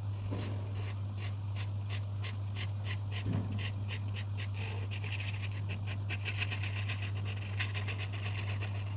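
Coloring strokes on paper, a steady back-and-forth scratching of about three strokes a second that turns denser and fuller for a few seconds past the middle, over a steady low hum.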